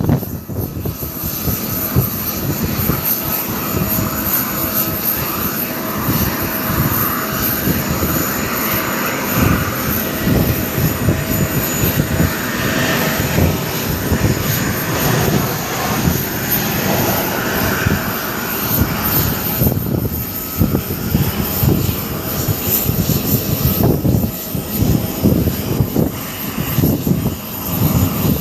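IAE V2500 turbofans of an Airbus A320-232 running at takeoff power: a continuous jet roar that swells toward the middle and eases off over the last several seconds. Strong wind buffets the microphone throughout.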